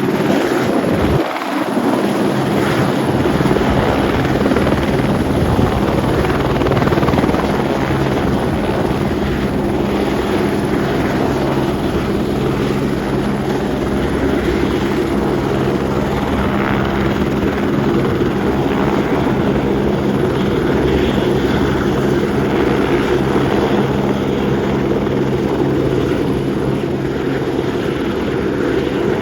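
Turbine helicopter running loud and steady, its rotor and engine noise holding level with a steady hum underneath.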